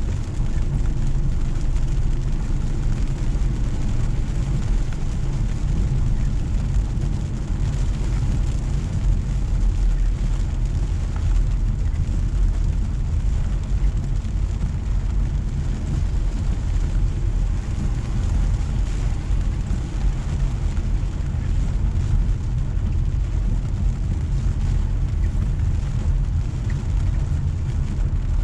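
A car driving on a wet road in steady rain: a constant low rumble of road and tyre noise with a fainter hiss of rain and spray over it.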